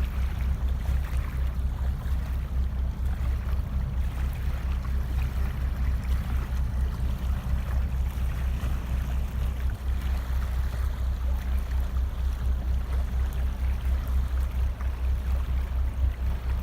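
Steady low drone of a large ship's engines, with water rushing and splashing over it.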